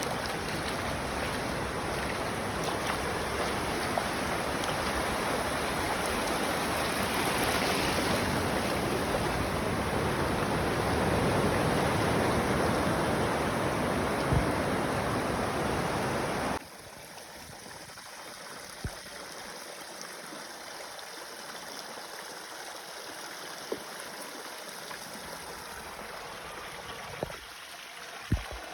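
Steady rushing noise of beach surf and wind. It cuts off abruptly about sixteen seconds in, leaving a much quieter hiss with a few faint knocks.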